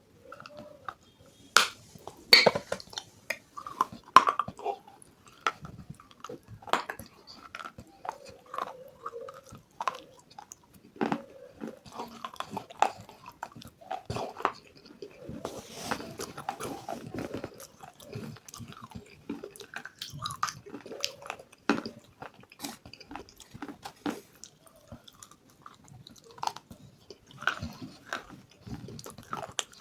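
Close-miked chewing with bites and crisp crunches, irregular and continuous, with some wetter, softer chewing in between.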